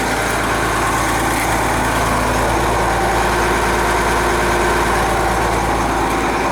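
Cummins 8.3-liter turbo diesel engine of a 1995 Blue Bird transit bus idling steadily.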